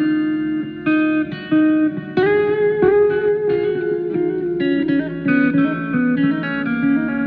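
Guitar playing a single-note melody, with notes that bend and slide in pitch.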